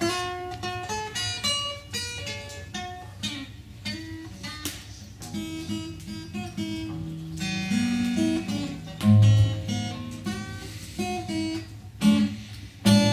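Acoustic guitar played solo, picked single notes mixed with strummed chords, as the introduction to a song.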